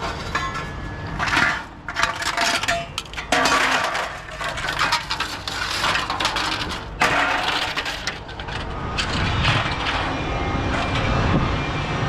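Scrap metal clattering and crashing as pieces are tossed and dragged onto a pile, with many sharp knocks in quick succession.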